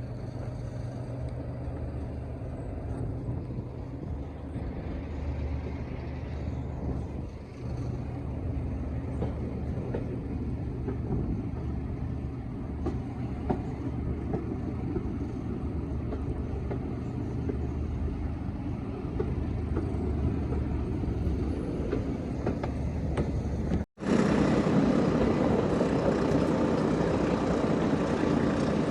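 Diesel train engine running steadily, a low, even drone. It gets abruptly louder near the end.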